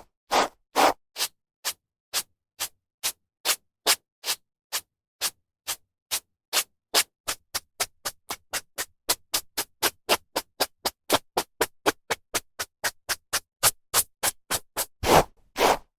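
Hairbrush strokes through hair: a quick series of short brushing swishes, about two or three a second at first and speeding up to about four a second in the middle, with a few longer, fuller strokes near the end.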